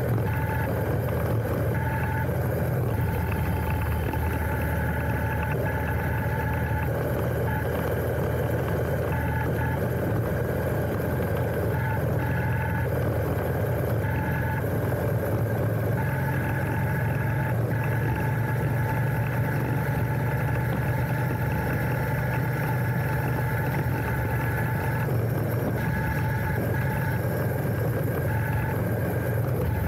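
Royal Enfield Interceptor 650's 648 cc parallel-twin engine running at a steady note, heard from the handlebars.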